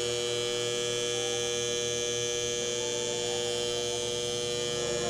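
A steady electrical hum with a high whine over it, unchanging in pitch and level, cutting off suddenly at the end.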